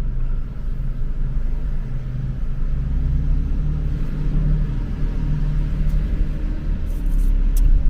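Car driving along a city street: a steady low engine hum and road rumble, with a few faint clicks near the end.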